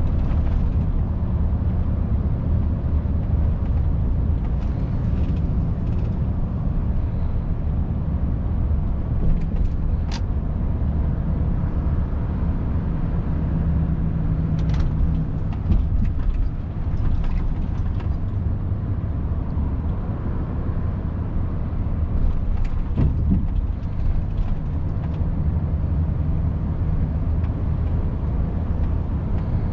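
Volvo FH 500 truck's 13-litre six-cylinder diesel engine running steadily on the move, with a low hum and road noise and a few scattered light clicks.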